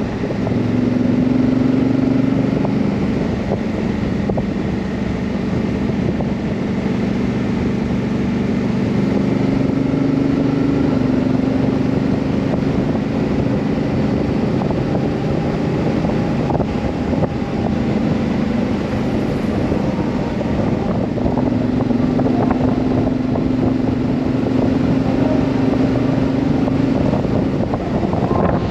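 Honda CRF1000L Africa Twin's parallel-twin engine running under way, its pitch stepping up and down several times with speed, over a steady rush of wind.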